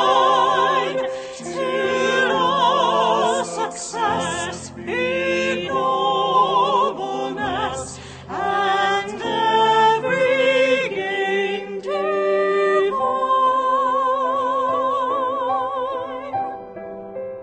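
Classical, operatic-style singing with a wide vibrato, held notes moving through a melodic line; the voice thins out near the end.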